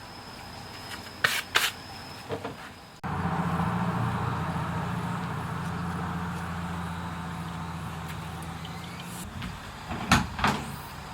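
Subaru R-2's 360cc two-stroke engine starts abruptly and runs steadily for about six seconds, then stops. Sharp clicks come a second or two before it starts and again just after it stops.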